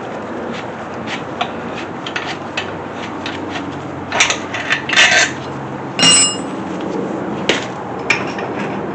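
Metal tools and hardware clinking and clanking: a run of light clicks, louder knocks about four to five seconds in, and a sharp metallic clang that rings on briefly about six seconds in.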